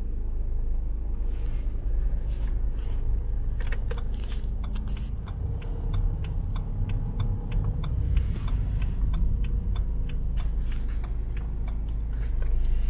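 Inside the cabin of a BMW 320d diesel estate, its engine idling with a steady low rumble, and a run of light clicks in the middle.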